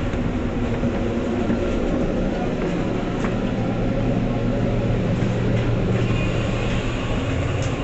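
MBTA commuter rail train running along the track: a steady low rumble of wheels and running gear, with a faint high squeal entering a couple of seconds before the end.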